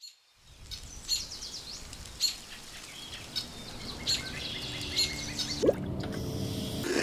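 Birds chirping over a low, steady outdoor background; near the end, water starts running from a tap.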